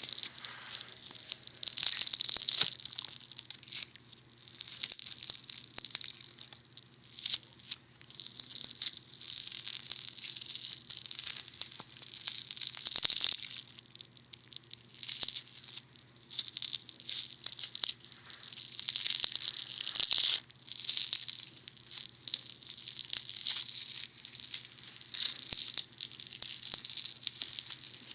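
Funny Foam soap foam pressed and squished against a binaural dummy head's ear microphones: close, crackling and fizzing noise in irregular swells, with scattered sharp clicks.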